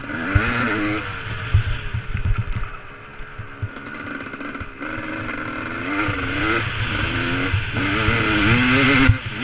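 Motocross bike engine revving up and down repeatedly as it is ridden, with frequent low thumps underneath.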